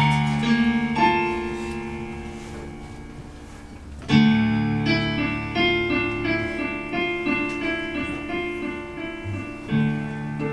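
Piano music: a loud chord at the start and another about four seconds in, each left to ring, followed by a run of evenly repeated notes.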